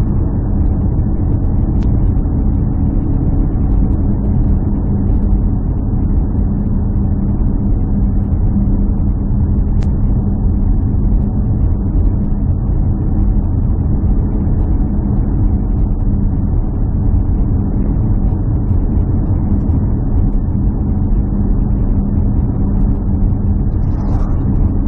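A steady, loud, low engine drone with a constant hum, unchanging throughout.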